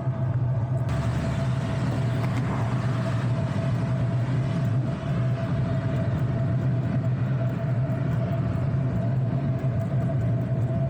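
Steady road noise while riding a bicycle along a road: a constant low hum with a thin steady tone above it and a rushing hiss that grows slightly about a second in.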